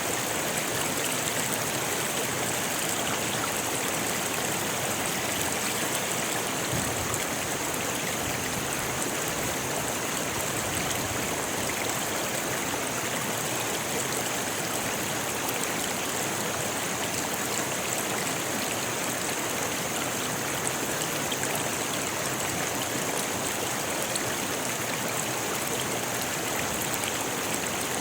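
Rocky river rushing and splashing over stones in a steady, continuous flow.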